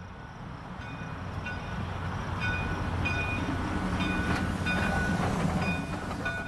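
HO-scale model train running past: a diesel locomotive's engine rumble with light repeating clicks, growing louder toward the middle and fading near the end.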